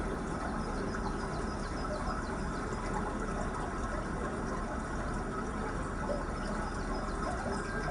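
Steady trickle of running water, with faint high ticks sprinkled through it.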